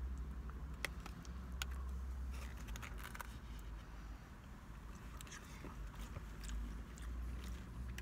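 A person chewing and biting food close to the microphone, with scattered sharp clicks and small scrapes from eating, over a steady low hum.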